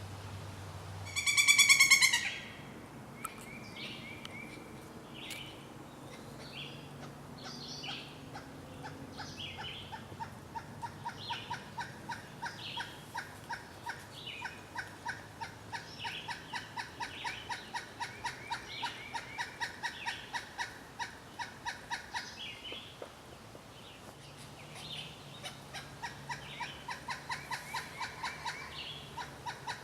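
Pileated woodpecker calling: long runs of rapid, evenly repeated notes, pausing for a couple of seconds and starting again. One loud, drawn-out call about a second in, and other birds' short notes in the background.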